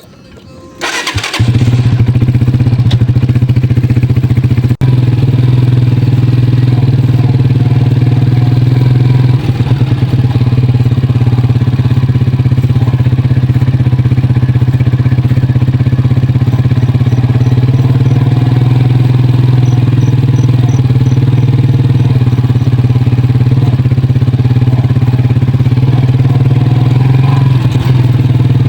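Motorcycle engine running steadily at an even pitch, loud and close, coming in about a second in.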